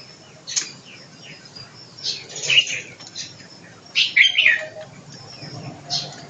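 Small birds chirping in short, sharp bursts, about one every two seconds.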